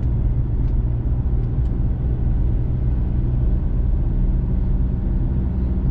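Diesel pickup truck driving steadily uphill, heard from inside the cab: an even, low engine and road rumble.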